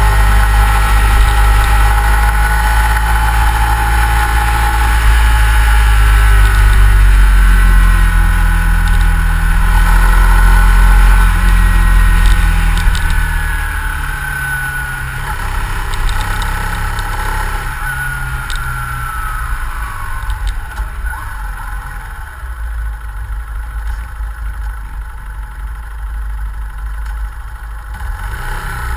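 Yamaha Fazer 150 Blueflex's single-cylinder engine running on its stock exhaust, its pitch shifting up and down. About halfway through it falls in pitch and gets quieter.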